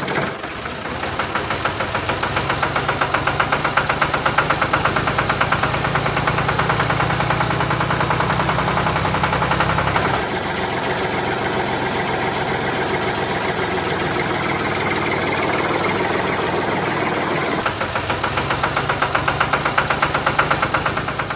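Small motor of a homemade mini tractor running steadily, with a fast, even rattling pulse. Its tone shifts slightly about halfway through.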